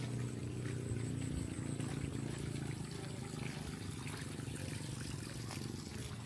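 Running water, a steady low rush that fades slightly toward the end.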